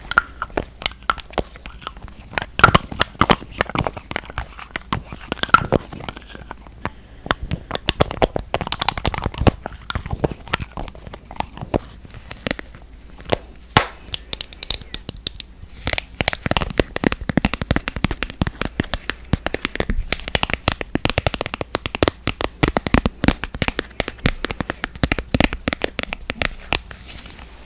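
Makeup products being tapped and handled for ASMR: a dense, irregular run of sharp taps, clicks and crinkly crackles on plastic makeup packaging.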